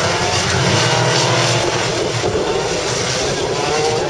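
Banger racing cars' engines running and revving as they drive round the track, pitch rising and falling.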